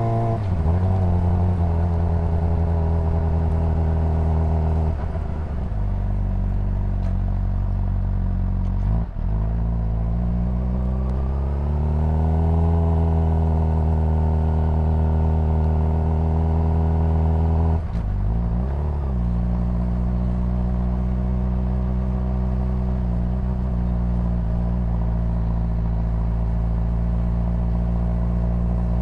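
Honda CBR600RR inline-four engine and exhaust under way, heard from the bike. The revs shift with throttle and gear changes: a drop at the start, a short break about nine seconds in, a climb that then holds steady, and another drop a little past halfway before it settles to a steady cruise.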